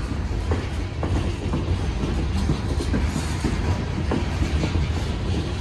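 Long freight train of hopper cars rolling slowly past, slowing down: a steady low rumble with irregular clicks and knocks from the wheels.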